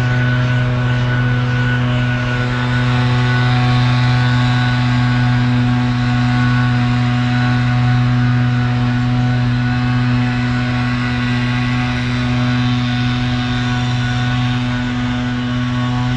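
A steady, unchanging mechanical hum or drone at one constant pitch, like an engine or motor holding a fixed speed.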